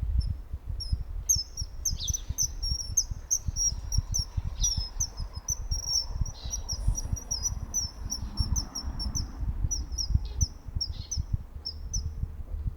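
Common kingfisher calling: a long run of short, high, piercing whistles, several a second, over a low, uneven rumble.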